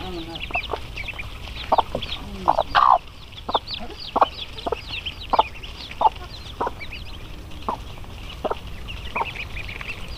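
Chicken clucking in short, separate clucks about once a second, over a busy, continual high chirping.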